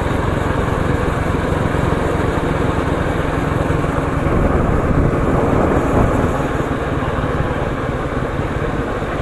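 Motorcycle engine running while riding, with heavy wind buffeting on the microphone.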